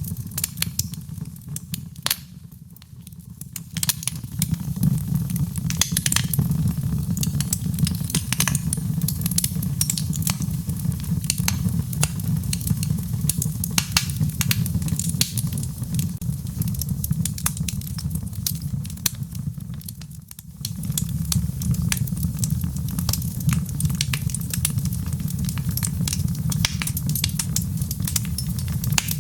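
Wood fire in a fireplace crackling and popping: a dense stream of sharp snaps over a steady low rumble of the flames. It dips quieter for a moment about three seconds in and again about twenty seconds in.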